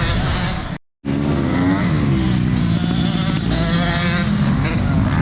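Motocross motorcycle engines revving and running, their pitch rising and falling, with a sudden cut-out about a second in before the engines come back.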